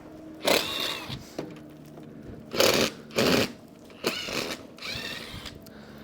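A power driver run in several short bursts of under a second each, some with a whine that bends in pitch, driving Tapcon screws.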